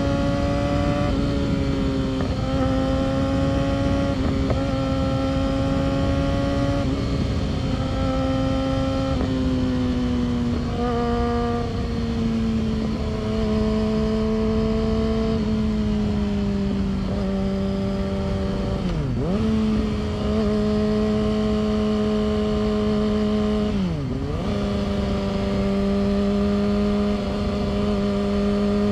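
Yamaha R6's inline-four engine running at high, steady revs under way, its pitch easing a little lower around a third of the way in. Revs dip sharply and recover twice, about two-thirds through and again a few seconds later.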